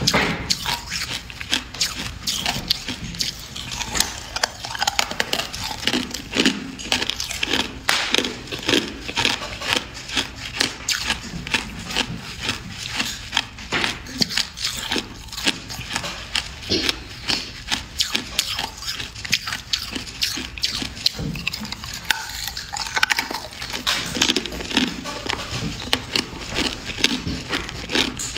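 A person biting and chewing hard clear ice close to the microphone: many sharp, irregular crunches and cracks, several a second.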